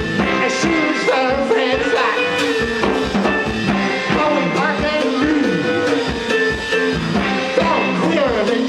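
Rock band playing live, loud and continuous, with a steady drum beat and sliding, sustained electric guitar lines in a long instrumental stretch of a song.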